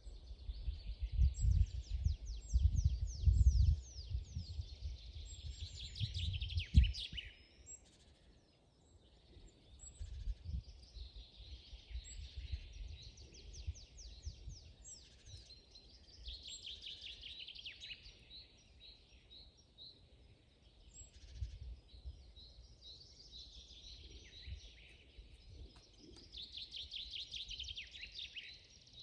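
Several songbirds singing in a forest, with repeated phrases of quick chirps and trills overlapping throughout. A low rumble sits under the song for the first seven seconds and ends in a thump, then fades to a faint rumble.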